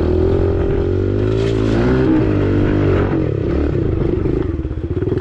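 Dirt bike engine running, its pitch swelling and dipping a little as the throttle is worked, the beat turning choppier in the second half.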